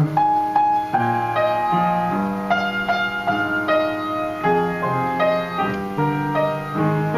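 Solo piano playing an instrumental interlude between sung verses, a sequence of sustained chords and single notes changing about every second.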